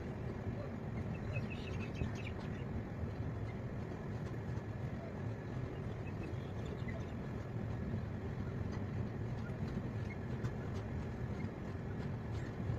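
Passenger train running along the track: a steady low rumble of wheels and carriage. A few faint chirps come through about one and a half to two seconds in.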